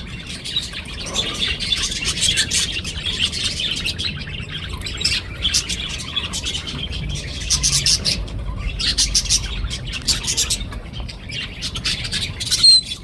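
A pair of budgerigars chattering and chirping steadily, a fast warble full of clicks, with one sharp, loud high chirp near the end.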